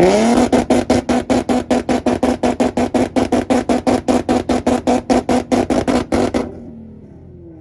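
Nissan VQ V6 engine revved up onto its two-step launch limiter. It holds a steady rev while popping and banging rapidly and evenly, about six times a second, for around six seconds, then drops back off the limiter near the end.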